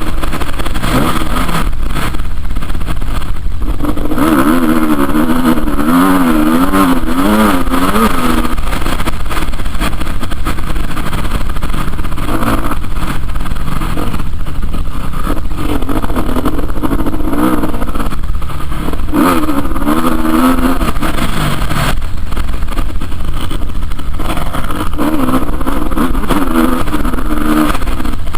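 Motocross motorcycle engines revving, the pitch climbing and dropping again and again as the throttle is worked, with several louder stretches of rapid up-and-down revving.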